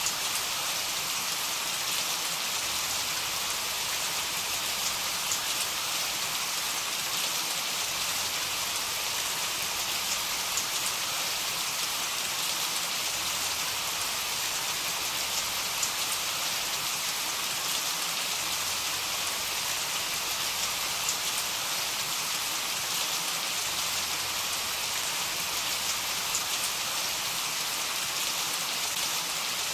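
Heavy rain falling steadily, an even hiss with scattered sharper drop hits.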